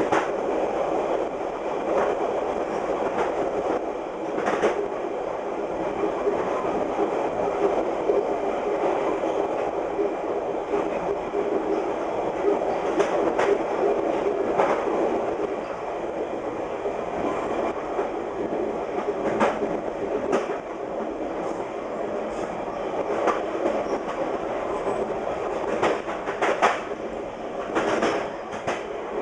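VIA Rail passenger train running fast over jointed rail: steady rumble of wheels on track with irregular sharp clicks as the wheels strike the rail joints.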